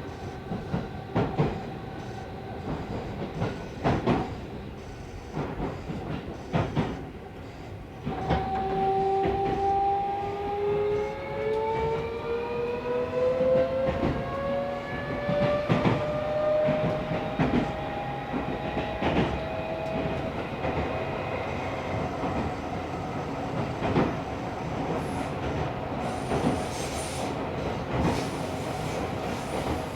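Inside a Tokyo Metro Series 16000 subway car on the move: wheels clacking over rail joints, and about eight seconds in the VVVF inverter and traction motors start to whine, the whine rising in pitch as the train gathers speed before levelling off.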